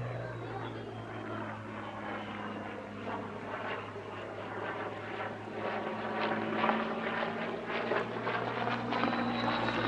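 Propeller engine of a Spitfire Mk.Ia, a Rolls-Royce Merlin V12, droning as the aircraft flies its display, growing louder through the second half.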